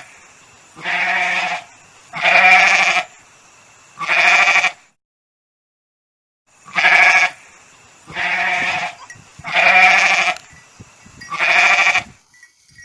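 Goat bleating: seven loud calls, three and then, after a short pause, four more, each lasting well under a second.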